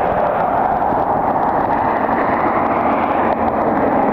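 Jet aircraft engines making a steady, even roar.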